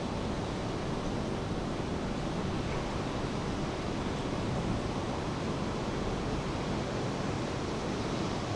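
Steady rain with ocean surf: an even, unbroken hiss with no distinct wave surges.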